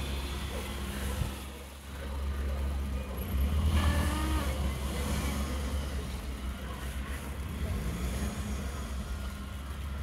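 A Maruti Suzuki Alto hatchback's engine running under throttle as the car drives through deep slush, getting louder about three and a half seconds in.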